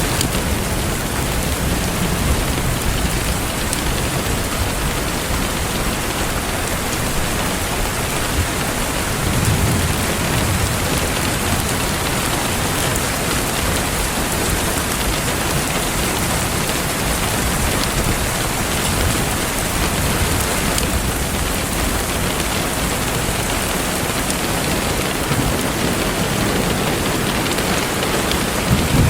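Steady rain falling, an even hiss, with a brief low rumble about ten seconds in.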